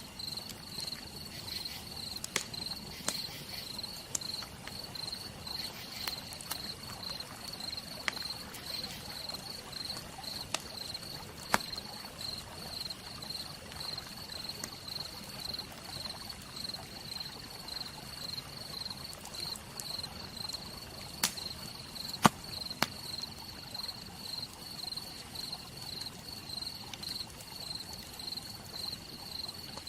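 Campfire crackling, with scattered sharp pops, the loudest a little over two-thirds of the way in. Under it, crickets chirp in a steady, evenly pulsing high trill.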